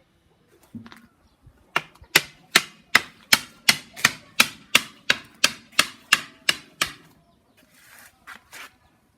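About a dozen sharp, ringing strikes on bamboo in an even rhythm, roughly two and a half a second. They stop a couple of seconds before the end and are followed by a few faint scrapes.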